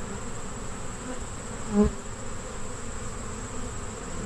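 Honey bees buzzing steadily around busy hive entrances, with one bee passing close by in a brief, louder buzz a little under two seconds in.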